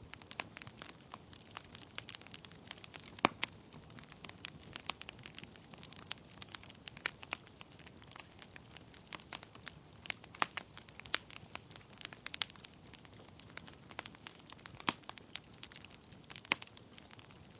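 Wood logs burning in a fireplace: irregular sharp crackles and pops over a low steady rush of flame.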